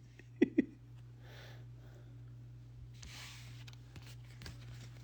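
Two short, sharp nasal or throat sounds from a person about half a second in, then a soft breath-like hiss, over a steady low electrical hum.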